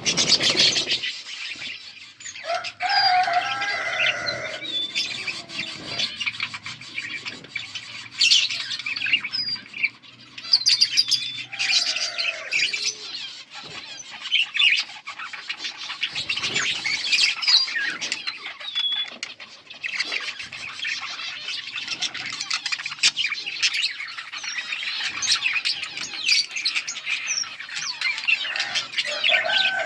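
Budgerigars chattering: a dense, continuous warble of quick high chirps, with a few lower calls that bend in pitch now and then.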